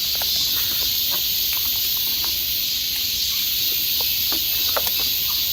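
Steady high hiss of outdoor background noise, with a few faint scattered clicks and taps.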